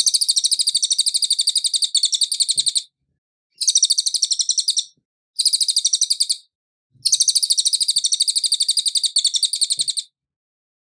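Cililin songbird singing: rapid high-pitched chatter of quickly repeated notes, in four bursts with short gaps between them.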